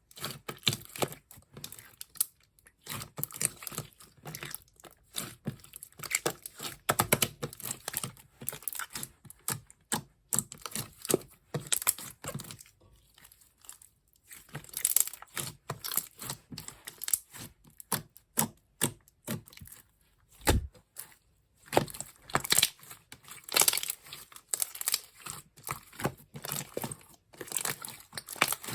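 Clear slime being squished and stretched by hand: a dense, irregular run of small sharp clicks and crackling pops, with brief pauses.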